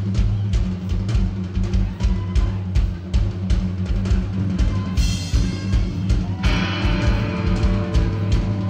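Live rock trio playing an instrumental passage: a steady kick-drum beat under a heavy bass line, with cymbals and guitar coming in harder about five seconds in.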